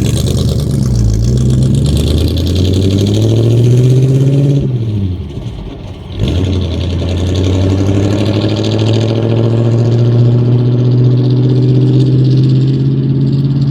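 1950 Ford F1's flathead V8 engine running under way: its revs rise, fall away briefly about five seconds in, then climb slowly and steadily again.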